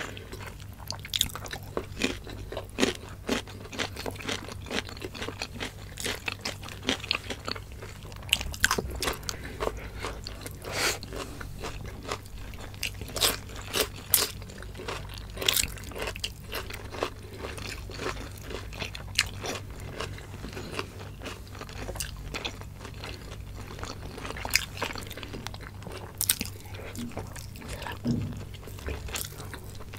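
Close-miked eating sounds of two people: crisp crunches of bitten raw cucumber slices and the wet chewing of adobo-braised chicken gizzards and livers. Many short sharp crunches come irregularly throughout.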